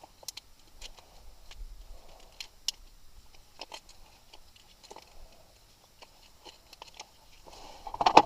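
Scattered light clicks and knocks of small hardware being handled and sorted, with a louder clatter near the end.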